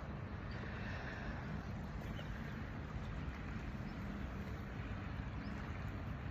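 Steady outdoor wind noise rushing and buffeting on the microphone.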